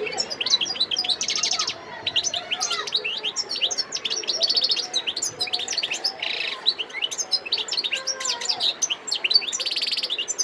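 Wild-caught European goldfinch singing: a fast, unbroken run of high twittering notes, broken by several short buzzy trills, with a brief pause about two seconds in.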